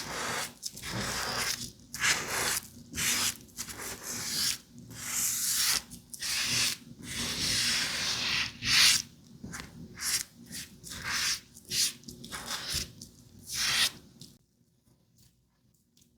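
Repeated rubbing strokes of makeup being worked onto a mannequin's face, each a short hiss, about one or two a second, stopping near the end.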